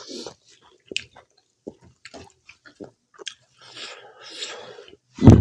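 Close-miked chewing of pork curry and rice: scattered wet mouth clicks and smacks with soft chewing noise. Near the end comes a sudden loud sound from the throat.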